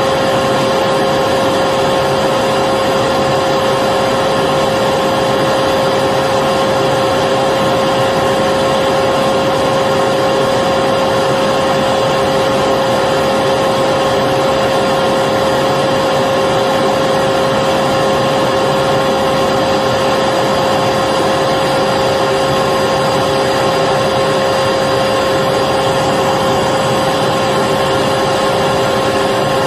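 Electric vacuum cleaner running steadily without a break: a constant rush of air with a steady whine at one fixed pitch.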